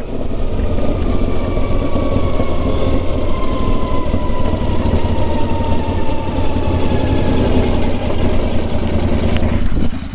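Royal Enfield Continental GT 650's 650 cc parallel-twin engine running loud and steady with its exhaust silencers removed, the bike on the move. A faint whine slowly falls in pitch over several seconds.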